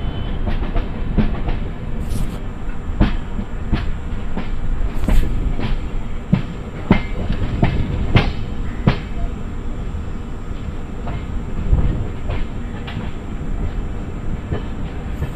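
Vidarbha Express passenger coach rolling along the track, heard at an open coach door: a steady rumble of wheels on rail with irregular sharp clacks as the wheels cross rail joints and points, thickest about halfway through.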